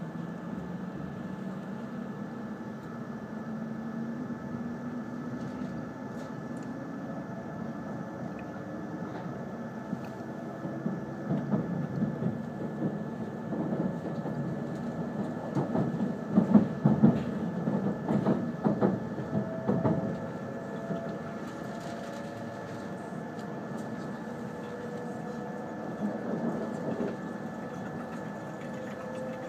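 Inside the cabin of an E5 series Shinkansen pulling away from a station: a steady running rumble with a motor whine that rises in pitch over the first few seconds as the train gathers speed. In the middle comes a louder stretch of irregular rattling and knocks lasting several seconds.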